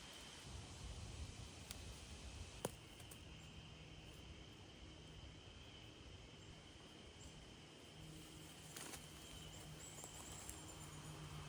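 Faint outdoor ambience: a steady high insect drone, with a single sharp click about two and a half seconds in.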